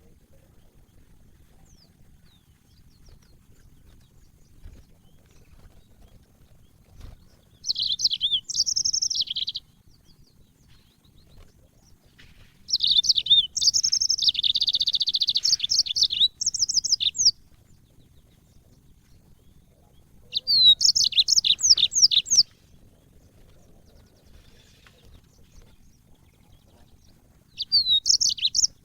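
Yellow-fronted canary singing: four bursts of fast, high twittering song, the longest about four seconds, with pauses of a few seconds between them.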